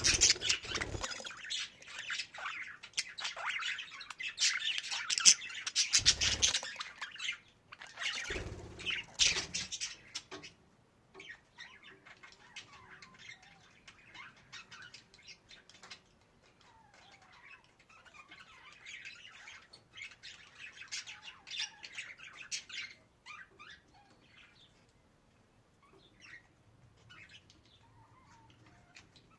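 Budgerigar chattering and warbling, with rapid squawky chirps. The chatter is loud and busy for the first ten seconds, with a few dull thumps, then turns into softer, scattered chirps.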